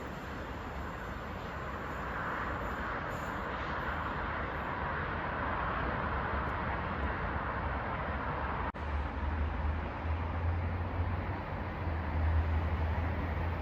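Train passing on the line: a steady rush of wheels on rail over a low rumble, swelling a few seconds in, with a brief break about nine seconds in.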